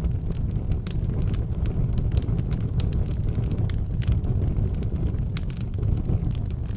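Wood fire burning in an outdoor fireplace, with frequent small sharp crackles and pops over a steady low rumble.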